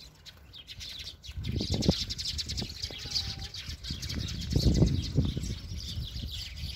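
Small birds chirping in a busy, high twitter, with a short whistled note about three seconds in. Two louder low rumbles come through, one about two seconds in and one near five seconds.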